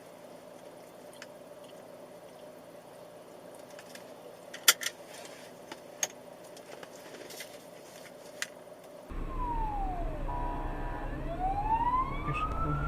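Faint hiss broken by a few sharp knocks, the loudest about five seconds in. About nine seconds in, a wailing siren sweeps down and then back up in pitch over low road rumble: likely the ambulance's siren.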